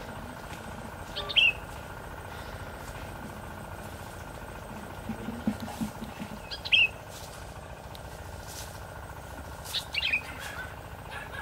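A bird chirping: three short, sharp calls a few seconds apart, over a steady low outdoor background hum.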